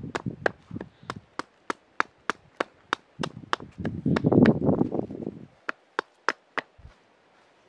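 A steady run of sharp knocks, about three a second, stopping about a second before the end, with a low rustling rumble under them midway.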